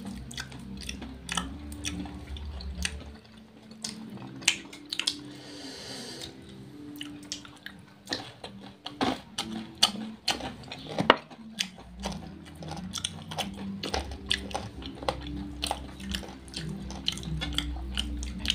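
Close eating sounds of crispy fried chicken and rice eaten by hand: wet chewing and lip-smacking, broken by many short sharp clicks and crunches.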